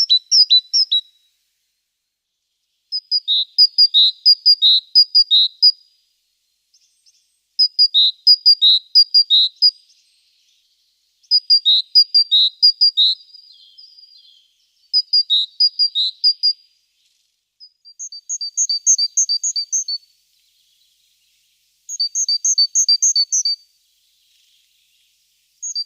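A songbird singing loud, clear phrases of quickly repeated two-note calls, each phrase lasting a second or two to about three seconds with short pauses between them; in the later phrases the notes come faster and higher.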